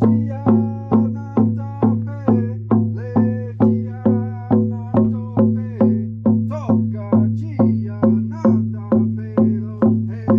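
Chant music: a drum struck steadily about twice a second over a low held drone, continuing the chant that is sung with 'hey ya' vocables just before.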